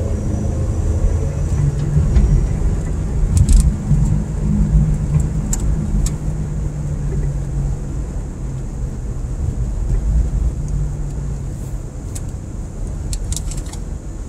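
Car engine and road noise from inside the cabin while driving: a steady low drone, with a few short clicks.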